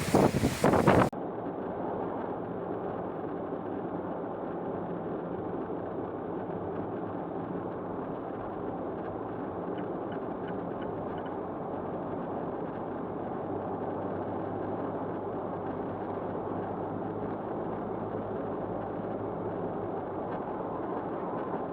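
Wind buffeting the microphone for about a second, cut off suddenly, then a steady, muffled car engine hum with road noise.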